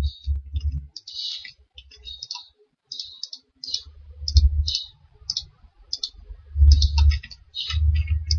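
Computer mouse clicking irregularly, many short clicks, with a few dull low thumps against the desk or microphone.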